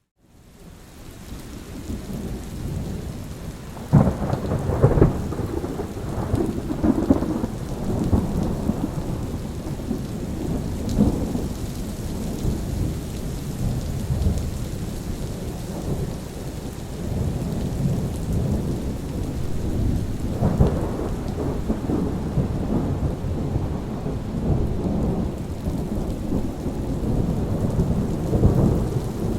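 Steady rain with rolling thunder rumbling throughout. A sharp crack of thunder breaks about four seconds in, and another loud rumble comes about twenty seconds in. The sound fades in from a brief silence at the start.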